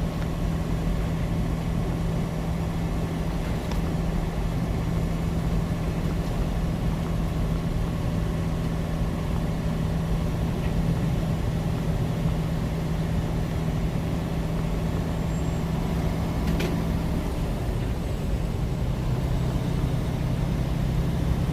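Semi-truck engine running steadily at road speed, heard from inside the cab over even road noise. About three-quarters of the way through, the engine's drone drops to a lower pitch, and there is one brief click shortly before.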